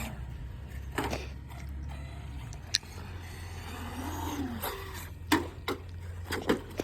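Radio-controlled car's electric motor and gears whirring, its pitch rising and falling once about four seconds in. Several sharp knocks, more of them near the end.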